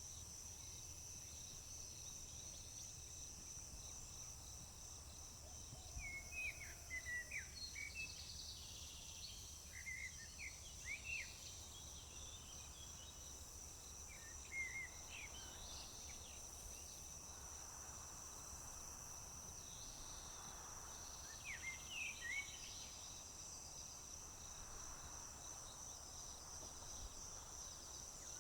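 Crickets trilling steadily and high, with a songbird calling in short runs of chirps several times.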